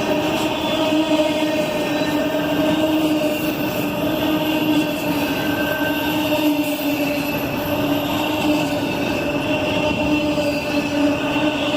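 Norfolk Southern freight train rolling past, a steady loud noise of the cars with several steady high tones held throughout.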